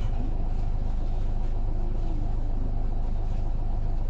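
Isuzu KK-LR233J1 bus's diesel engine running with a steady low rumble, heard from inside the cabin.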